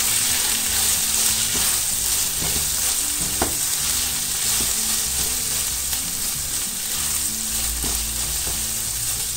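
Chopped garlic, bacon and calabresa sausage sizzling in lard over high heat, stirred with a silicone spatula that scrapes and clicks against the metal pan, with one sharper click about three and a half seconds in. The garlic is frying until golden.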